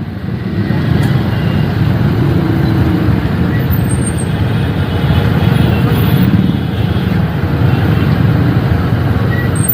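Motorcycle running on the road with steady road and traffic noise, a dense low rumble throughout.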